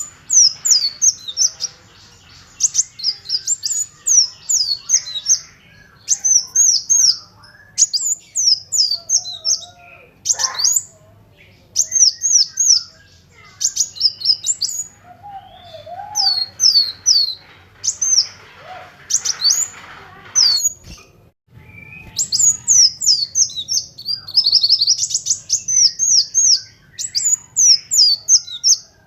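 Kolibri wulung sunbird singing fast, loud strings of high, thin chirps, each a quick downward sweep, in bursts of one to two seconds with short pauses between them, and a longer pause about three-quarters of the way through.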